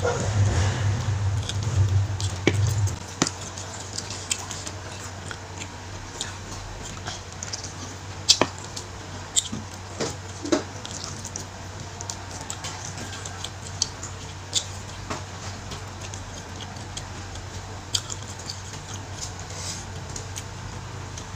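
Close-miked eating of spicy goat meat by hand: chewing, with scattered sharp mouth clicks and wet smacks. A steady low hum lies under it and drops in level about three seconds in.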